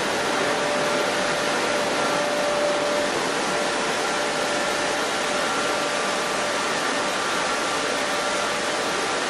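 Chili powder milling machinery running steadily: an even, loud rushing drone with a faint steady whine.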